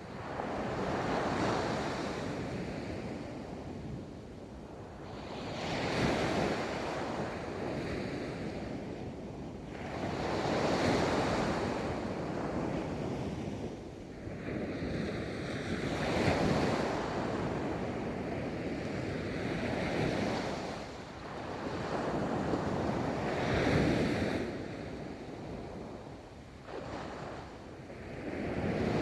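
Ocean waves breaking and washing up a beach, each surge swelling and fading about every four to five seconds, with some wind on the microphone.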